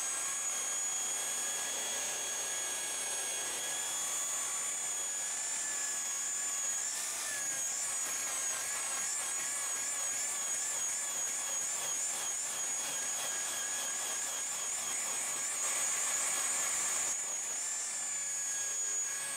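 Electric buffer (car polisher) running against textured plastic car trim, a steady high whine whose pitch wavers up and down through the middle as the pad is worked over the piece.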